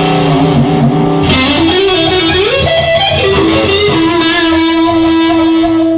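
Instrumental break in a rock song with an electric guitar lead. A note glides upward midway, then a single long note is held near the end.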